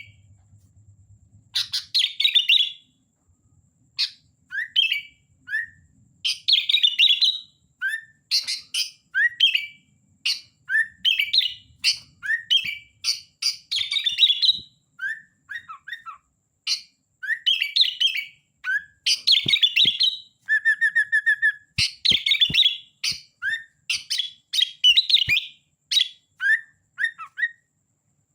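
Sooty-headed bulbul (kutilang) singing busily: short, bright chirping phrases of rising and falling whistled notes, repeated every second or so, with a brief rapid trill about two-thirds of the way through.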